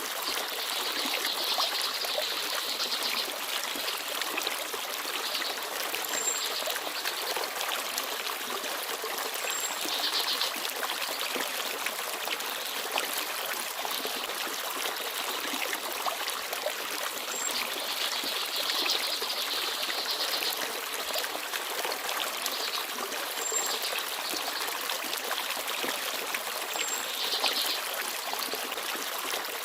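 Forest stream babbling steadily, with small birds chirping now and then: several short bouts of twittering and a few thin, very high single notes.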